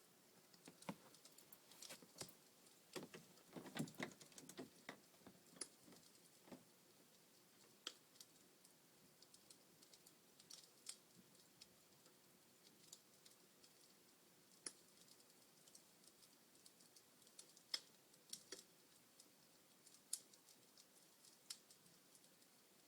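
Wood fire in a fireplace crackling: faint, irregular sharp snaps and pops, thickest about three to five seconds in, with a few louder single pops later.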